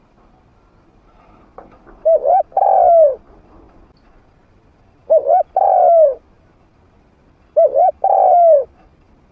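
A spotted dove cooing three times, each phrase two quick short coos followed by a longer coo that falls away, a few seconds apart. It is the medium-pitched call of a trained decoy bird.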